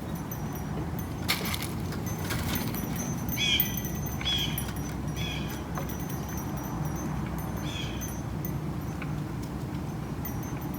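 Four short bird calls, each a brief burst of a few stacked tones, spread over a few seconds, with two brief rustling noises before them; a steady low rumble runs underneath.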